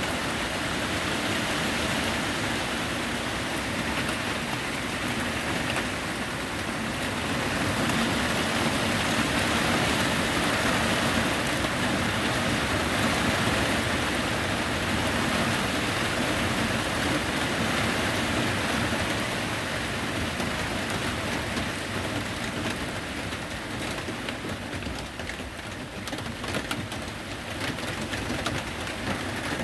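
Steady heavy rain falling, an even hiss with scattered individual drops ticking close by.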